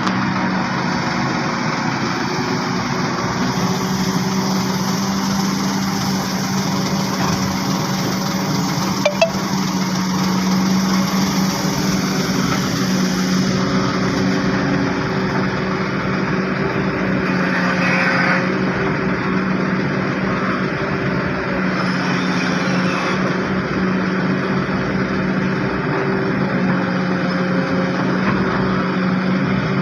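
Heavy diesel engine running steadily, a constant low drone, with one short knock about nine seconds in.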